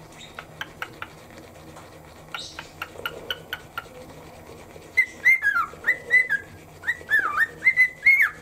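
Cockatiel whistling its song: a run of short quiet chirps, then from about five seconds in a string of loud whistled notes that hold and swoop down and back up.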